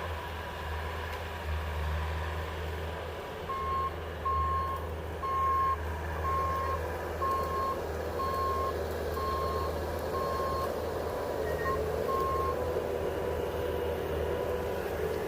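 A vehicle's reversing alarm beeping at an even pace, about three beeps every two seconds, over a diesel-like low engine rumble; the beeping starts a few seconds in and stops a few seconds before the end while the engine keeps running.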